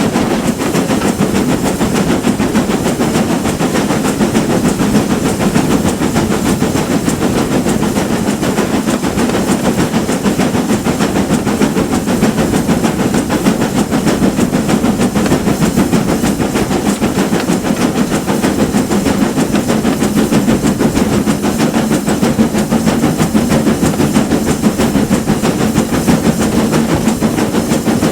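Steam train under way, likely hauled by a GWR Manor-class 4-6-0 locomotive: a steady, loud rumble with hiss.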